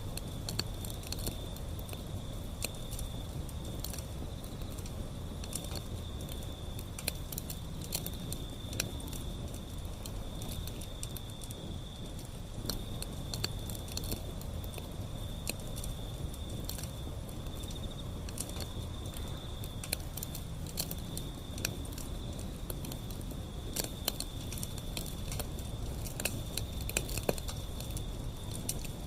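Wood fire burning: a steady low rumble with frequent sharp crackles and pops at irregular intervals, over a faint steady high-pitched tone.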